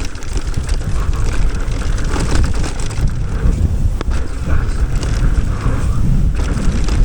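Wind buffeting the microphone with a heavy low rumble, over tyre and trail noise from a mountain bike being ridden on dirt. Faint scattered clicks and rattles come through.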